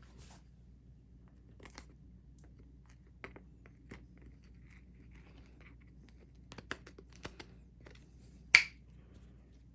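Scattered light clicks and taps, a dozen or so short ones, with one sharper, louder click near the end, over a faint low hum.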